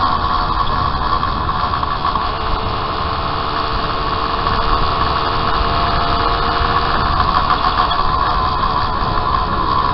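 Home-built three-cylinder engine of a 195cc Gillette special racing motorcycle running hard at high revs, heard from on board, with a steady high-pitched drone throughout.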